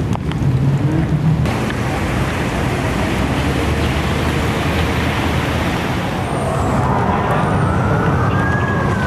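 A steady rushing noise with an emergency-vehicle siren that wails slowly up and then down over the last few seconds.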